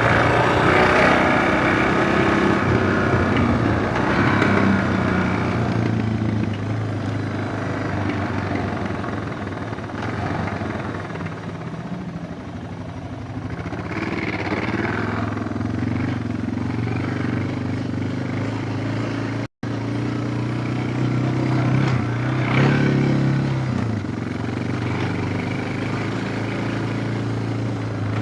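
Suzuki DR650's single-cylinder four-stroke engine running while being ridden, its pitch rising and falling several times with the throttle. The sound cuts out for an instant about two-thirds of the way through.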